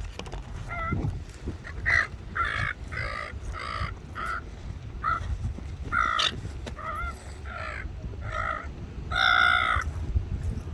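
A bird giving a run of short, harsh calls, roughly two a second, with a longer, louder call a little past nine seconds, over a steady low rumble.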